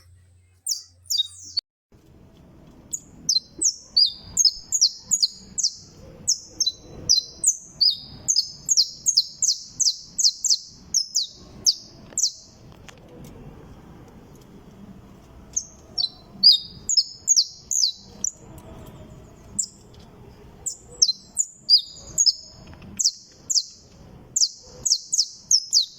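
Saffron finch singing: long phrases of quick, high, sharply slurred notes repeated in rapid series, broken by short pauses between phrases.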